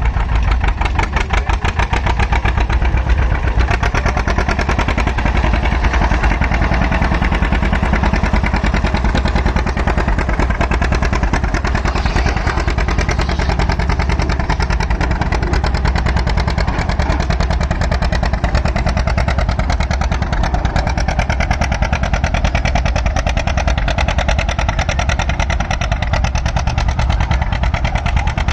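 Antique tractor engine running hard under load, with a steady, rapid firing beat, as it pulls a weight sled down the track.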